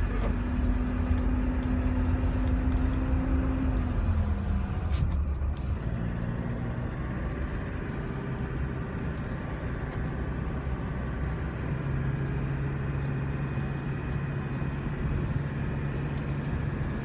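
Engine and road noise inside the cab of a moving one-ton truck with an automatic gearbox. The engine note holds steady, falls about four seconds in, and settles later into a lower, steady hum.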